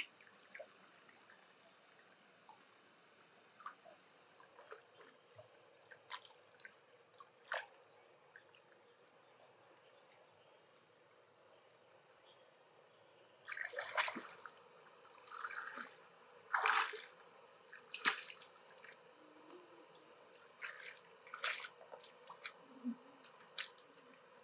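Scattered sharp clicks, with wet squishing and dripping sounds, loudest in a cluster just past the middle, as a freshwater pearl mussel is handled and opened.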